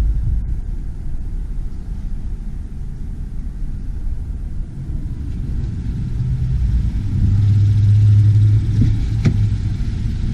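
Low rumble of a motor vehicle's engine running, with a steady hum that grows louder for a couple of seconds about seven seconds in.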